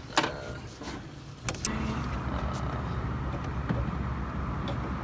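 A few sharp metallic clicks, then from about one and a half seconds in a steady low engine rumble sets in abruptly and keeps running.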